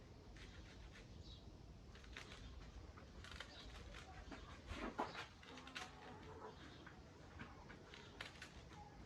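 A knife cutting leafy greens, a scatter of short crisp cuts and clicks, the loudest about five seconds in, with a little faint clucking from chickens.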